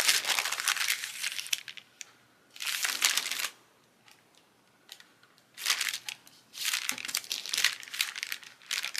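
Crinkling of craft supplies being handled, in four bursts with short quiet gaps between.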